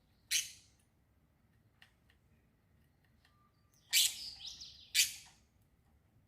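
Small bird chirping: three short, sharp chirps, the first about a third of a second in and the other two about four and five seconds in, with a brief twittering note between the last two.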